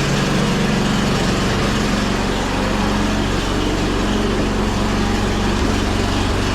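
Gas snow blower engine running steadily after being pull-started.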